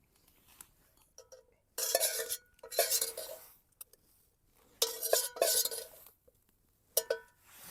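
A spoon scraping and clinking inside a metal cooking pot while stew is eaten from it. There are four short scrapes with a faint metallic ring, then a sharper clink near the end.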